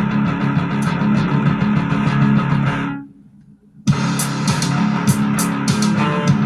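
Live rock band playing with guitar and bass. The band stops dead about three seconds in, leaves a gap of under a second, then crashes back in together.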